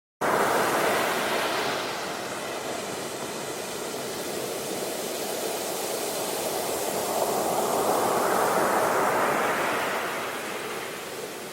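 A steady rushing noise like surf, starting suddenly and swelling twice, once at the start and again a few seconds before the end, as if waves are washing in.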